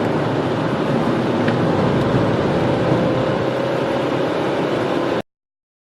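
Steady car engine and road noise from a 2.0-litre diesel car in a 0-100 km/h acceleration run. It cuts off abruptly to silence about five seconds in.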